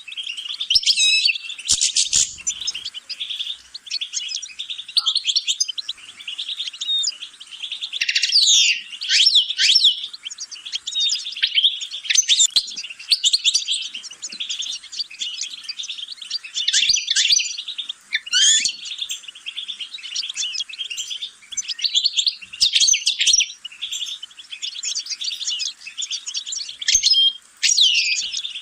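A songbird singing a long, continuous twittering song of fast trills and sliding whistled notes, with louder phrases coming and going.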